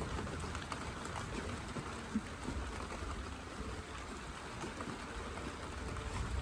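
Heavy rain falling steadily in a thunderstorm, with one short knock about two seconds in.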